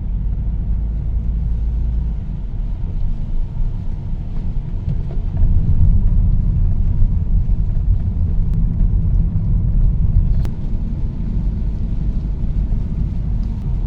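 Car driving slowly, heard from inside the cabin: a steady low rumble of road and engine noise that grows louder about five seconds in, with a couple of faint clicks.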